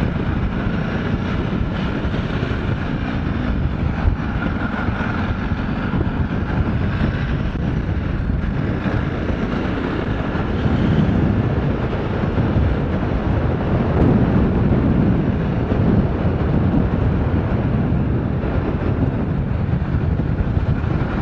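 Motorcycle engine running under way, mixed with wind rushing over a helmet-mounted microphone, the engine note swelling a few times with the throttle.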